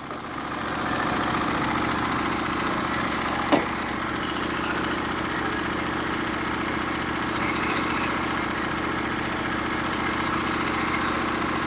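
Gas engine of a Norwood HD36v2 portable bandsaw mill running steadily, coming up a little in level in the first second, with a single sharp click about three and a half seconds in.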